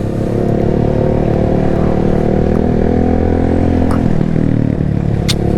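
Yamaha MT-07's parallel-twin engine idling steadily, with two short clicks about four and five seconds in.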